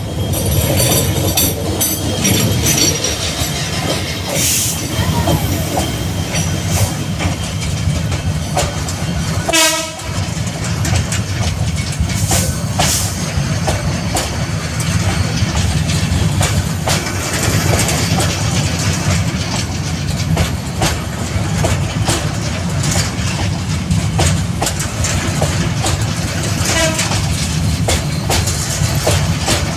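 Train running along the track: a steady low rumble with the clickety-clack of wheels over the rails, and a short pitched blast about ten seconds in.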